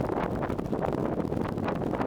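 Wind blowing across the microphone, a steady rushing noise.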